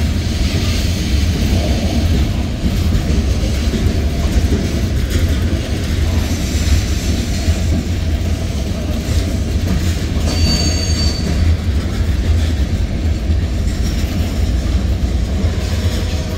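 Freight train of covered hopper cars rolling past close by: a steady low rumble of steel wheels on the rails. About ten seconds in comes a brief high-pitched wheel squeal.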